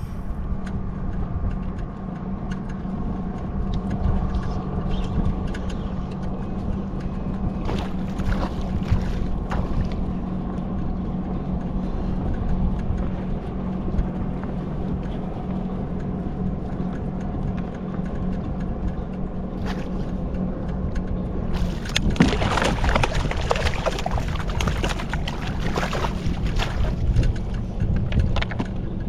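A motor running with a steady hum under a low rumble. About 22 seconds in, a louder hissing, rushing noise joins it.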